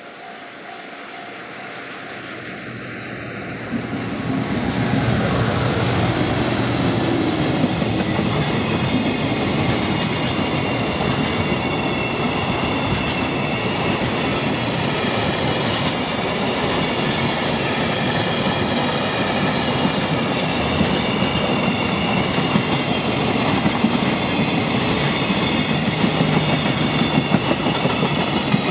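JR Freight EF210 electric locomotive hauling a container freight train past. It approaches, growing louder over the first four seconds or so, then the wagons roll by steadily with a rapid run of wheel clicks.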